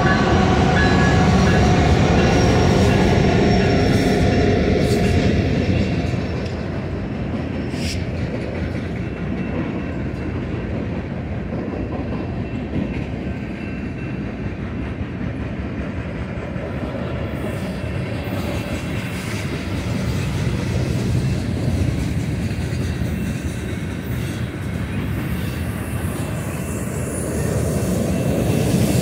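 Union Pacific freight train passing close by: the trailing diesel locomotives' engines are loudest for the first six seconds or so. After that comes a steady rumble of loaded flatcars rolling by, wheels on rail, getting a little louder again near the end.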